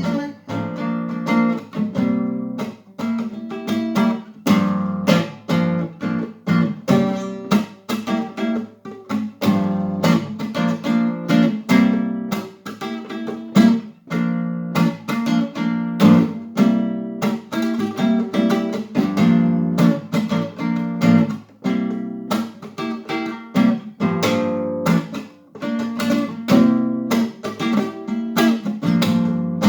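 Acoustic guitar strummed in a steady, driving rhythm, an instrumental passage with no singing.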